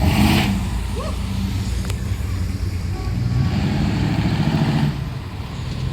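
Engines of vintage American cars rumbling past at parade speed, with a short hissing burst at the start and a low, pulsing exhaust rumble swelling about halfway through as a car goes by.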